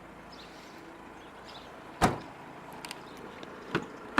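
A Mercedes-Benz C-Class's body panels being handled: one loud sharp thump about two seconds in, then a few faint clicks and two smaller knocks near the end, as a door or panel is shut and latched.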